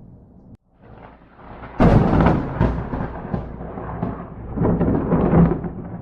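Thunder: a sharp crack about two seconds in that rolls on into a rumble, then a second loud peal near the end.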